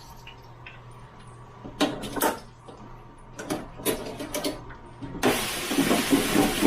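Knocks and clatters of French fries and the wire fryer basket being handled, then, about five seconds in, a sudden loud steady sizzle as the fries go into the hot oil of a Butterball electric turkey fryer.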